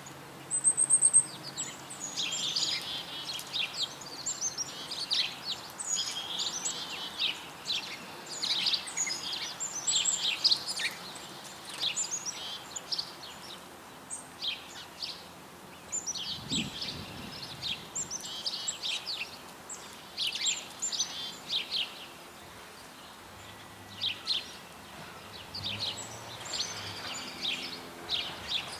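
Several small birds chirping and calling in quick, overlapping notes, with a short high whistle about a second in and a soft low thump about halfway through.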